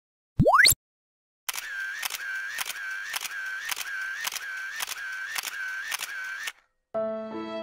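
Edited sound effects: a short, loud rising sweep, then a sound that repeats about twice a second for about five seconds and stops. Near the end, music with held notes begins.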